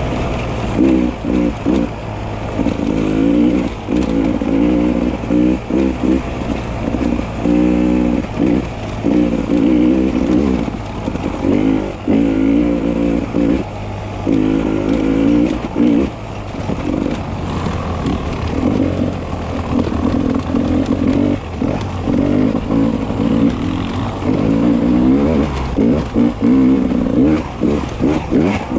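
Beta 300 RR two-stroke enduro motorcycle engine revving up and down as the throttle is worked on and off, with frequent short dips in pitch and level.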